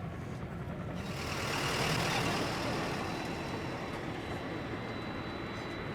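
Japan Airlines Boeing 767-300ER's jet engine starting up, heard from a distance: a rush of noise swells about a second in and eases off, leaving a thin steady high whine.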